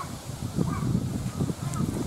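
Birds calling in short, repeated calls over a low rumbling noise.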